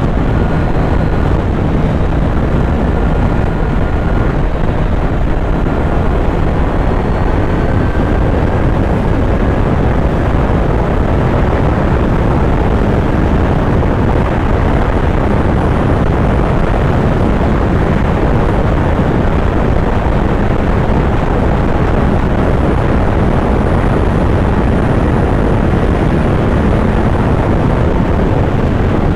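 Kawasaki Z900's inline-four engine running steadily while riding, mixed with loud rushing air on the microphone.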